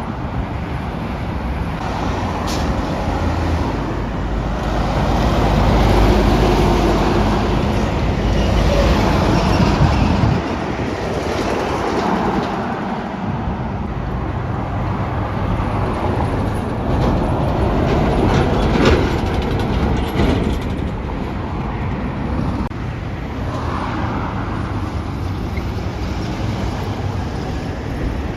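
Heavy trucks running past with a low engine rumble and tyre noise, swelling about five seconds in and dropping off about ten seconds in, with a few brief knocks.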